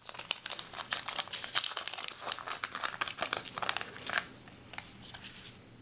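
Thin plastic wrapping crinkling and tearing as it is handled and pulled open: a dense run of small crackles that thins out after about four seconds.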